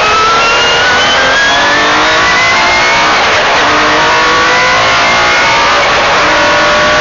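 Metro 6R4 rally car's 3-litre V6 engine accelerating hard, heard from inside the cabin: loud, its pitch climbing through a gear, dropping at a gear change about three seconds in, then climbing again.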